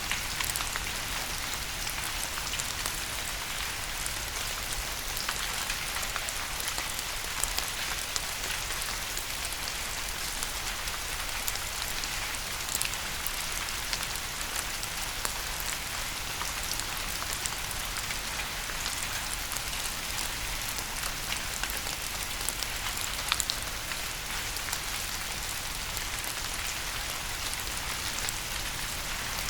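Steady rain falling: an even hiss with many small drops ticking sharply through it, one louder drop about three-quarters of the way through.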